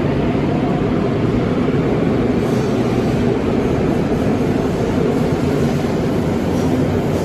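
Train running, a loud steady rumble.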